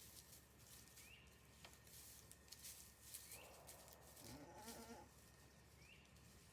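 A goat bleating once, faintly, starting about three seconds in and lasting under two seconds.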